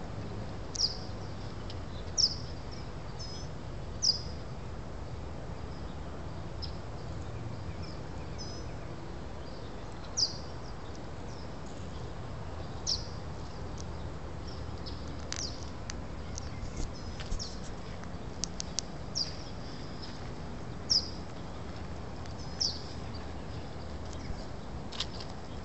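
Birds chirping: single short, sharp, high chirps that drop quickly in pitch, one every second or two, over a low, steady background rumble.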